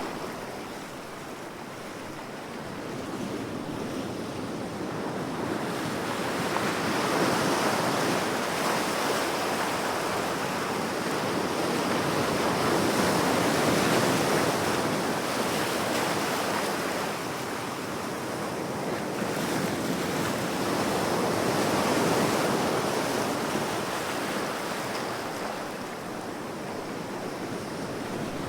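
Ocean waves washing on a shore, a steady rushing that swells and ebbs slowly as each wave comes in, with the loudest surges about eight, fourteen and twenty-two seconds in.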